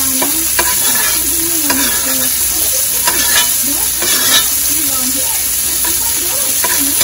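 Diced bell pepper sizzling in hot oil in a metal wok while a metal spatula stirs it, scraping and clicking against the pan now and then over a steady frying hiss.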